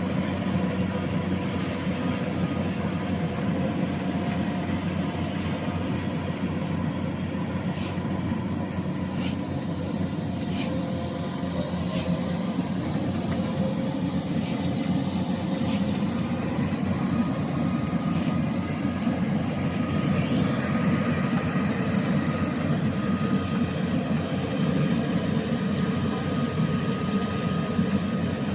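An engine running steadily, with a few faint clicks partway through.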